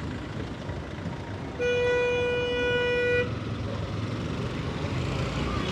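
A vehicle horn sounds once in a steady blast of about a second and a half, over the low rumble of street traffic.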